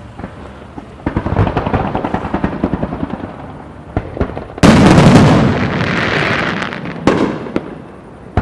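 Fireworks display: a rapid crackling barrage starts about a second in. About halfway comes a very loud bang, followed by a long fading crackle and rumble, and another sharp bang near the end.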